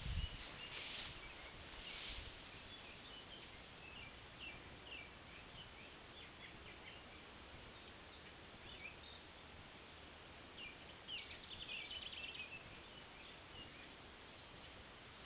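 Small birds chirping in short, scattered calls over a steady outdoor background hiss, with a busier run of chirps near the end. A couple of low thumps on the microphone come at the start and about two seconds in.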